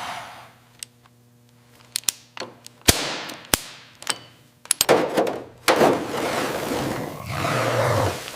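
A series of sharp knocks and clangs, then a few seconds of dense, noisy scraping sound.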